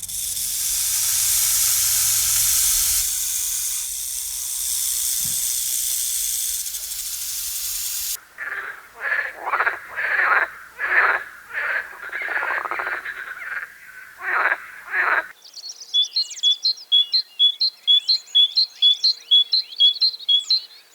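A steady hiss for about eight seconds, then a run of short animal calls, then a fast series of high chirps, about three a second, to the end.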